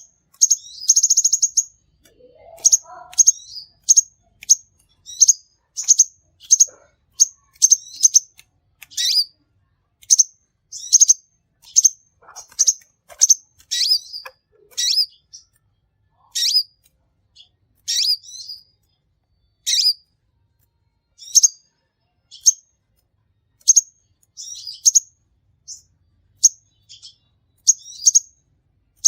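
A sunbird (Indonesian 'kolibri') singing vigorously: a steady series of short, high, sharp chirps, about one or two a second, with a brief buzzy trill about a second in.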